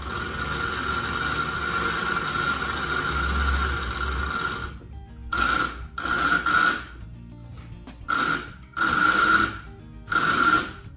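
Small electric motor of a postwar Lionel 3927 track-cleaning car spinning its cleaning disc with a steady whine while the car stays in place, because it is not self-propelled. After about five seconds the power is cut and reapplied in several short bursts.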